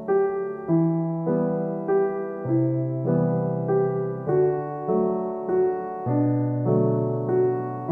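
Background music: a slow electric piano melody with sustained chords, the notes changing about once or twice a second.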